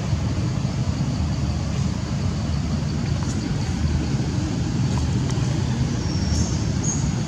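Steady low rumbling outdoor noise, with a few faint high-pitched chirps near the end.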